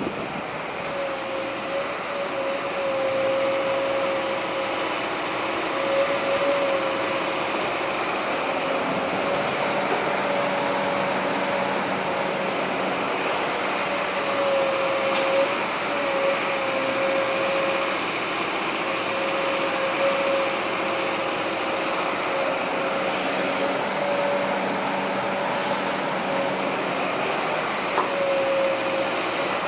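Heavy diesel earthmoving machinery running steadily, with a steady whine that drops out and returns several times.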